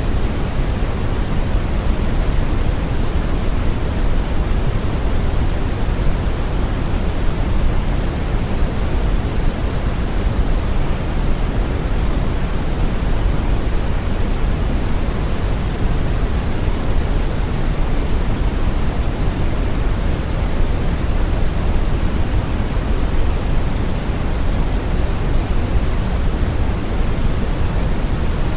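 Synthetic brown noise: a steady, deep hiss with most of its energy in the low end, unchanging throughout.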